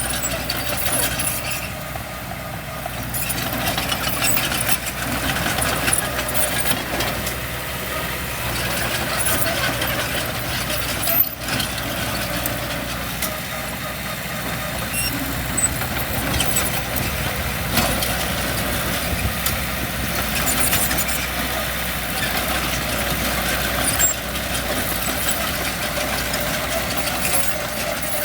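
Diesel engine of heavy earthmoving machinery running steadily, with scattered clicks and rattles and one sharp knock about eleven seconds in.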